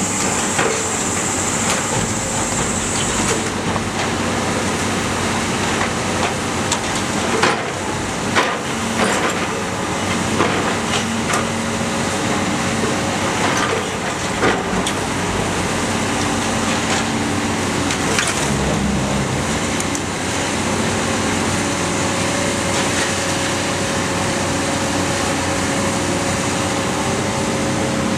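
Iron Pack car baler at work: a steady drone of its engine and hydraulics, with irregular loud bangs and knocks as scrap is compacted. A high hiss fades out a few seconds in, and a steady hum tone comes in during the second half.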